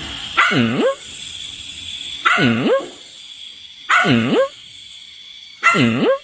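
A dog giving a drawn-out call four times, about every second and a half to two seconds, each call dipping in pitch and then rising.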